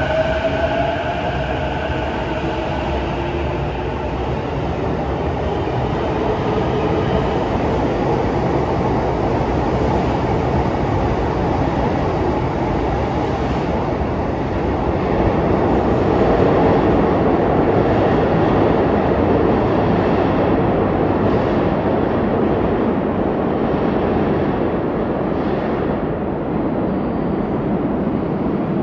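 Electric train running along the platform. A motor whine glides in pitch over the first few seconds, then steady wheel-and-rail running noise continues, swelling a little midway.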